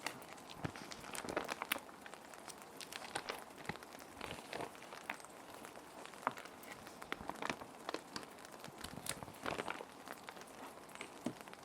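Plastic sheet protectors crinkling and rustling in irregular crisp bursts as paper sheets are slid in and handled, over a steady hiss of ambient rain.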